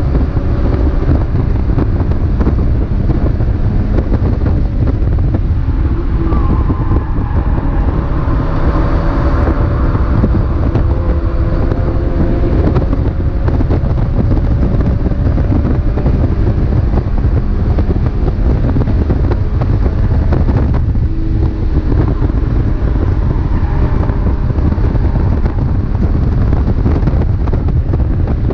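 Mazda MX-5 race car engine running hard at racing speed, its pitch climbing slowly and dropping back with gear changes and a brief lift about two-thirds of the way through, over heavy wind and road noise.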